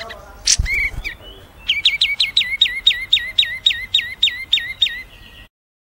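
Small songbird calling: a few sharp chirps, then a fast, even run of about five high, down-slurred notes a second for some three seconds, cutting off abruptly near the end.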